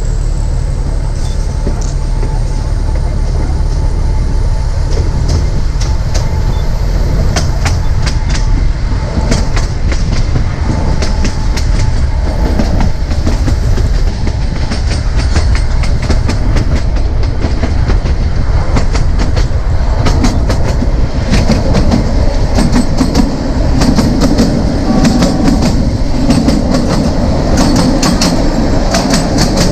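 Narrow gauge passenger train running along the track, heard from on board: a steady rumble with the wheels clicking over rail joints.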